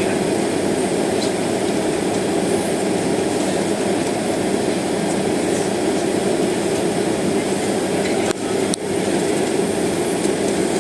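Steady cabin noise inside a jet airliner taxiing toward the runway: the engines at taxi power and the rolling of the aircraft on the taxiway. About eight seconds in the noise briefly dips, with a couple of faint clicks.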